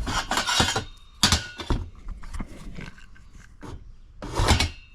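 Metal exhaust hardware and bolts being handled and knocked together, in three bursts of clatter: one just at the start, a short one about a second in, and the loudest near the end.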